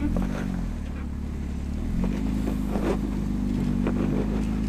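Jeep engine revving up under load while crawling over rock. The pitch rises at the start, rises again about two seconds in, then holds steady, with a few short knocks or scrapes along the way.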